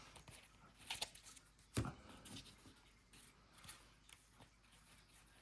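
Faint rustling and light clicks of trading cards being handled and slid one behind another while a pack is sorted through, with a slightly sharper card snap about two seconds in.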